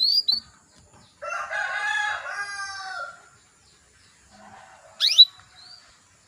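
Female canary calling: short high chirps at the start and a quick sharply rising chirp about five seconds in, the call used to lure male canaries into song. Between them a longer, lower call lasts about two seconds.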